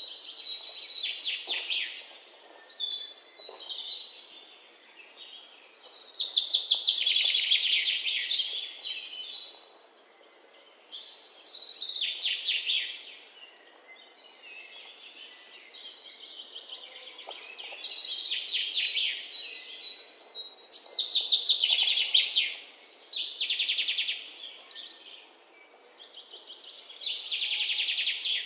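Bird singing repeated rapid trilled phrases, each a couple of seconds long and sweeping down in pitch, coming roughly every four to five seconds.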